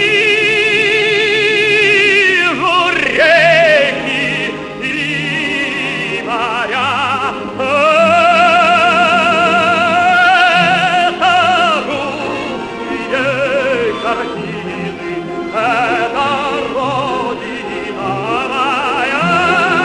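Operatic tenor singing long held notes with a wide vibrato over musical accompaniment.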